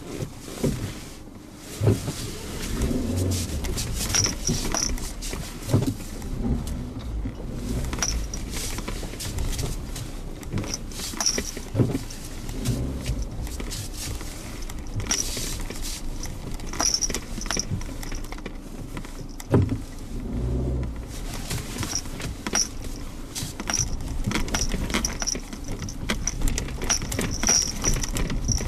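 Suzuki Jimny Sierra driving along a bumpy forest road: a steady low engine and road rumble, broken by frequent knocks and rattles as the 4x4 goes over bumps.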